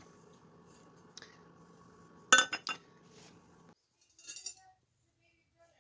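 Metal parts clinking: three sharp metallic clinks in quick succession about two seconds in, then a lighter rattle a couple of seconds later. A faint steady hum underneath cuts off suddenly midway.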